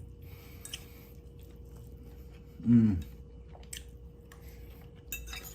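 A person chewing food close to the microphone, with soft wet mouth clicks, and a short hummed vocal sound about halfway through.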